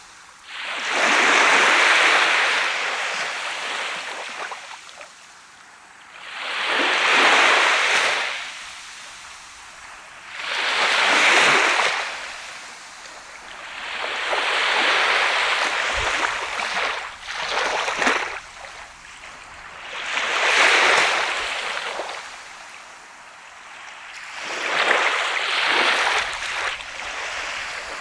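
Sea of Japan surf: small waves breaking and washing up a sandy beach, one after another about every four seconds, each swelling and then fading back into a quieter hiss.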